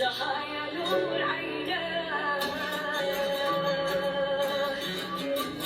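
A voice singing an Arabic song in long, wavering held notes over musical accompaniment, with one note held steady for about two seconds in the middle.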